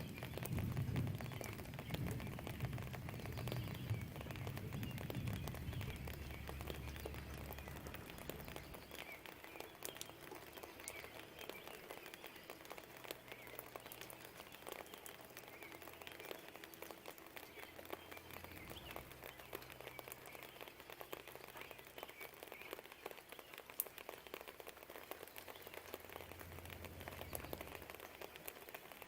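Steady light rain pattering and dripping, with fine drop ticks throughout. A low distant rumble is loudest at the start and dies away over the first eight seconds or so, and a fainter low rumble comes back in the last several seconds.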